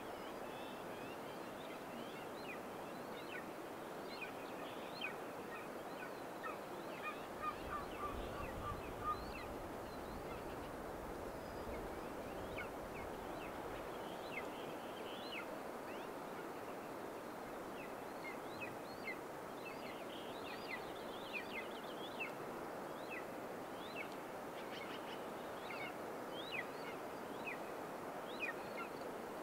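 Birds calling outdoors: many short, high chirps scattered throughout, with a quick run of lower notes about eight seconds in, over a steady hiss of background noise.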